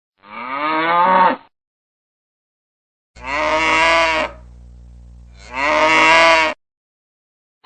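Cow mooing three times, each moo about a second long: one call, then after a gap of dead silence two more calls close together, with a low steady hum under the last two.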